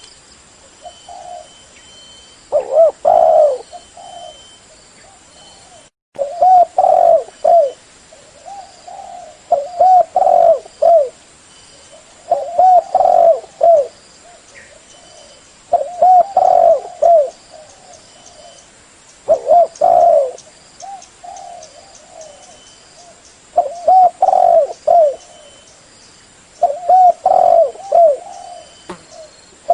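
Spotted dove cooing in repeated phrases of several short, bending coos, a phrase every three to four seconds. A faint steady high whine runs behind it.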